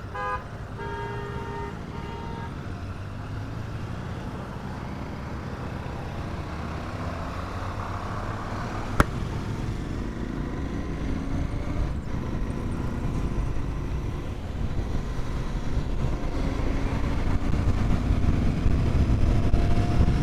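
Royal Enfield Continental GT 650's parallel-twin engine running under way in traffic, heard from the rider's helmet mic, getting louder with rising engine pitch toward the end as the bike accelerates. A vehicle horn toots several short times near the start, and there is one sharp click about nine seconds in.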